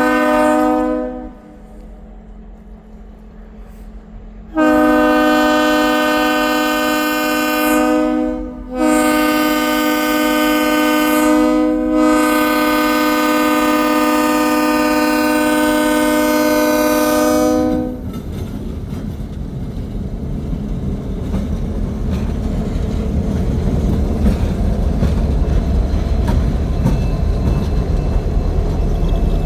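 Diesel locomotive air horn sounding as the train departs. A blast ends about a second in, then after a pause come a long blast and, after a brief break, a longer one lasting about nine seconds. After that the low rumble of the locomotives and the clatter of the train's wheels build steadily as it gets under way.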